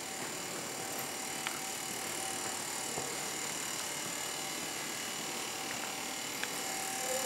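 Passenger train of coaches pulling slowly out of a station: a steady running hum and hiss with thin whining tones, and a few faint clicks from the wheels and running gear.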